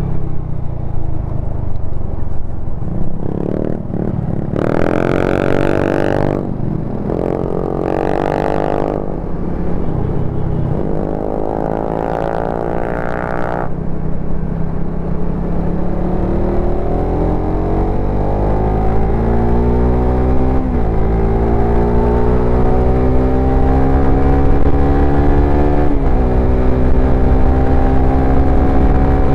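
Suzuki Satria FU FI motorcycle's single-cylinder engine and exhaust under way: several quick revs rising in pitch in the first half, then a long steady climb in pitch as it accelerates, broken twice by short dips at gear changes.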